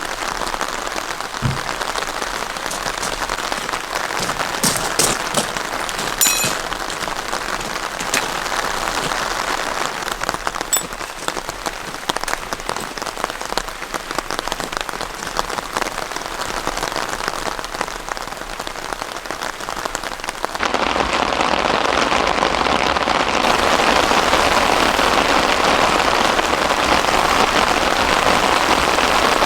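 Heavy rain falling in a steady, dense patter. About 21 seconds in it suddenly becomes louder and fuller.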